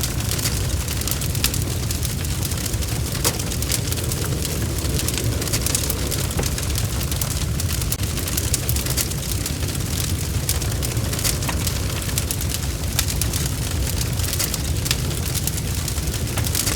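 Wood fire burning in a fireplace: a steady low rumble of flames with many quick, sharp crackles and pops scattered throughout.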